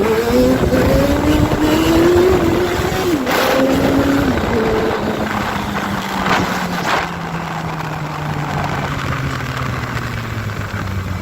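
Sport motorcycle engine accelerating hard, its pitch rising through the gears with shifts about three and four and a half seconds in, then settling to a steadier note that slowly falls as the bike eases off.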